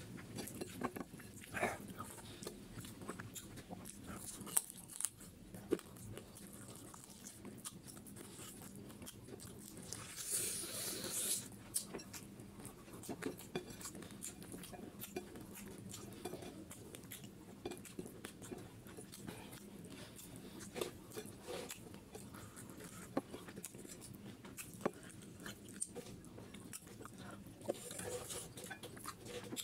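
Close-miked chewing and biting of spicy duck feet curry with rice, eaten by hand: wet mouth sounds with frequent small crunches and clicks. A louder hissing sound comes about ten seconds in and again near the end.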